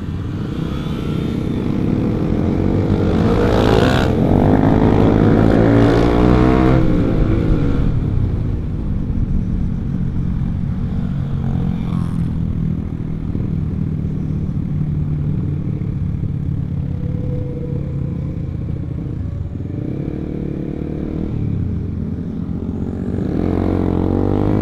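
Honda CBR150R single-cylinder engine with an R9 aftermarket exhaust, ridden on the road with wind rush on the microphone. The engine note rises and falls through the gears a few seconds in, loudest there, then settles into a steadier cruise.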